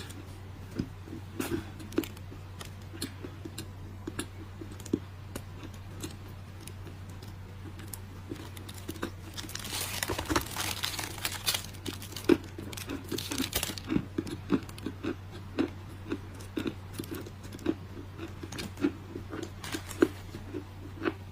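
Dry clay crunching: a long string of sharp crackles and snaps, thickening into a denser run of crumbling about halfway through, over a steady low hum.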